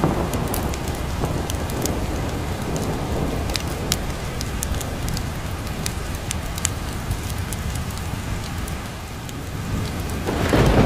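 Steady heavy rain with rolling thunder, scattered sharp ticks over the rain. The low rumble eases off through the middle and swells again near the end.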